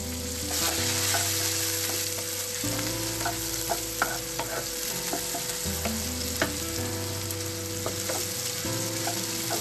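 Chopped spring onion whites and garlic sizzling in hot oil in a nonstick wok, stirred with a wooden spatula that knocks against the pan now and then. The sizzle swells about half a second in.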